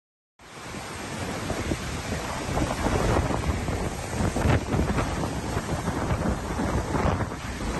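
Hurricane-force wind, about 140 km/h, gusting hard and buffeting the microphone with a heavy low rumble. It starts abruptly about half a second in and keeps surging up and down.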